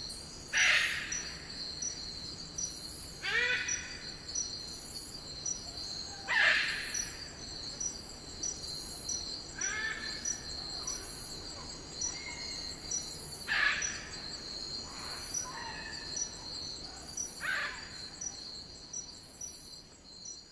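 Wild Eclectus parrots giving harsh squawks and screeches, about six calls spaced a few seconds apart, over a steady insect chorus in rainforest.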